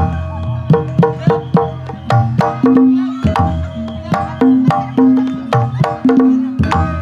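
Javanese gamelan music in Banyumasan style: quick hand-drum (kendang) strokes over ringing struck pitched tones.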